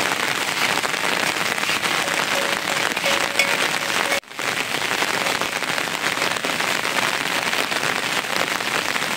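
Steady rain falling, an even hiss of many drops, broken by a brief dropout a little after four seconds in.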